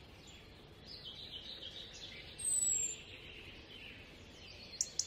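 Birds chirping faintly over a light background hiss, with a short high falling whistle about halfway through that recurs every few seconds. Two sharp clicks near the end.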